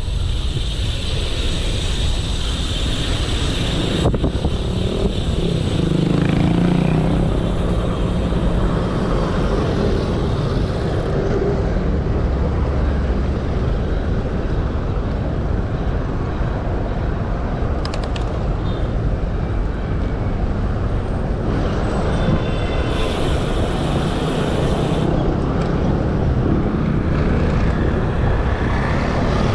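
Steady wind rumbling on the microphone of a camera on a moving bicycle, mixed with road and passing-traffic noise.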